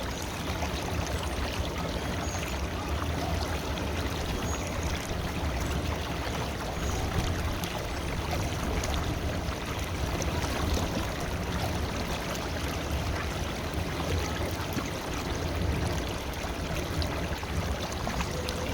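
River water flowing steadily over its bed: a continuous, even rush and burble of running water.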